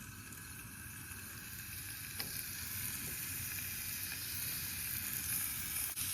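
Dove breasts frying in butter, sizzling steadily and growing louder as the fat heats, with a couple of brief pops.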